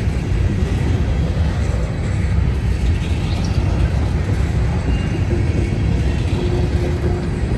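Freight train rolling by: a steady, loud rumble of wheels on rail.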